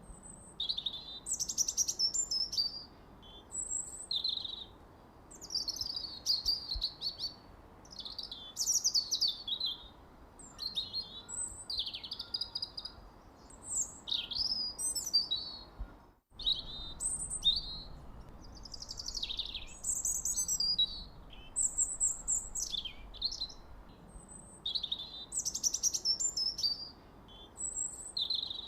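Birdsong: short, varied phrases of high chirps, quick sweeping whistles and trills, one after another with brief pauses between them. A faint hiss lies under the song.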